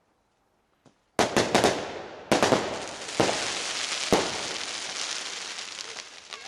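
Homemade firework rockets bursting: a rapid cluster of sharp bangs about a second in, another bang a second later, then a sustained crackling hiss with a few more bangs, slowly fading.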